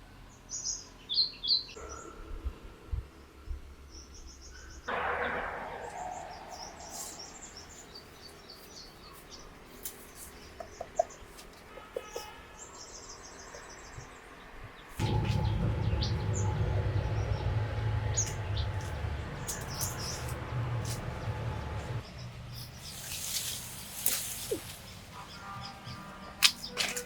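Small birds chirping in short bursts over outdoor background. In the middle stretch, a louder, steady low rumble comes in, then stops abruptly.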